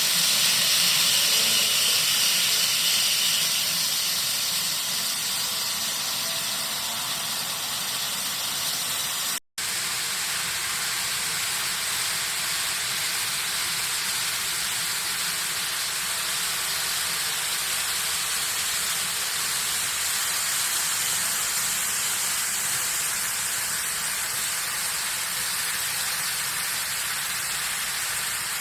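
Steady hissing noise with no clear pitch, broken by a momentary dropout about nine and a half seconds in.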